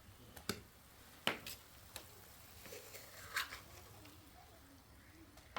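A few scattered sharp clicks or taps, the clearest about a second in and again past the three-second mark, over faint background.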